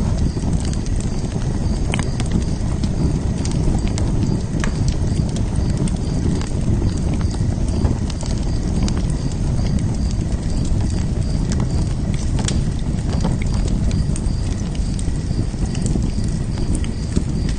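Wood fire burning: a steady low rumble of the flames with scattered sharp crackles and pops.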